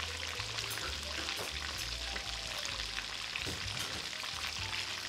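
Chicken pieces frying in hot oil in a pot: a steady crackling sizzle with many small pops.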